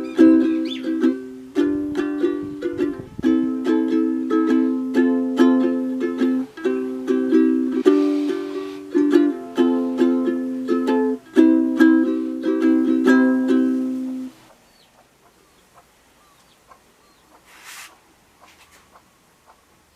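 Ukulele strumming chords in a quick, even rhythm, then stopping about fourteen seconds in; after that only faint small sounds and a brief hiss near the end.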